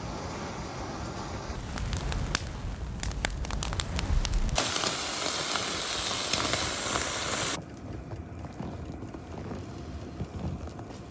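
Crackling and hissing noise in several abruptly cut stretches: sharp scattered crackles first, then a bright steady hiss, then a quieter rustling stretch.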